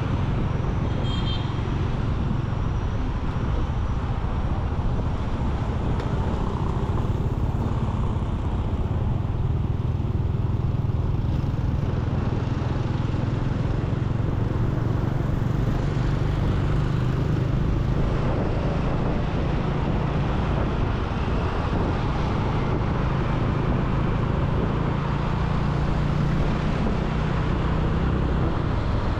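Motorcycle riding in city traffic: a steady low engine and road rumble with surrounding traffic.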